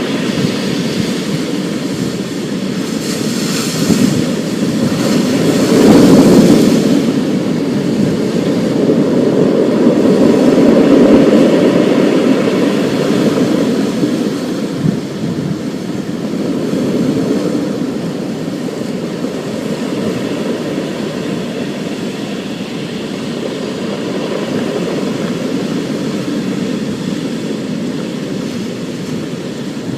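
Thunderstorm: long rolling thunder rumbling low, swelling about six seconds in and again around eleven seconds before easing off, over a steady hiss of rain.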